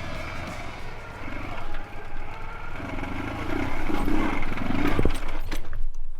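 Dnepr MT16 sidecar motorcycle's flat-twin engine revving hard under load and swelling in loudness, then dropping off abruptly near the end as the bike gets stuck, grounded on its frame.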